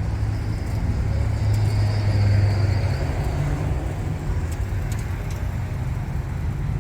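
Car engine running with a low, steady rumble, loudest about two seconds in, then rising slightly in pitch about three seconds in.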